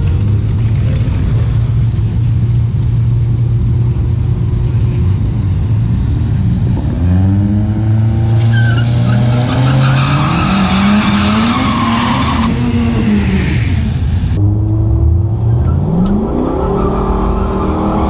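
Cammed LS1 V8 of a Holden VX Calais revving hard and repeatedly in a burnout, with a tyre-spin hiss over the engine for about four seconds around the middle. After an abrupt change near the end, the same engine is heard from inside the cabin, revving up again.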